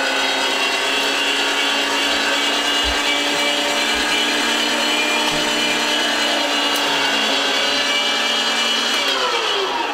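Electric meat grinder running steadily as raw chicken is pushed through it with a plastic plunger. Near the end the motor is switched off and its hum falls in pitch as it winds down.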